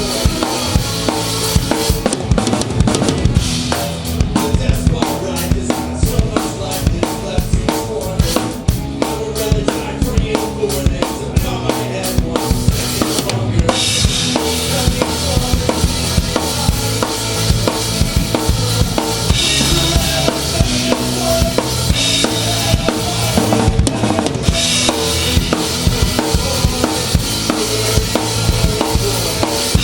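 Live rock band playing an instrumental passage, with the drum kit up close and loudest: kick drum and snare keep a steady beat over bass and guitar. From about halfway through the cymbals ring brighter and fuller.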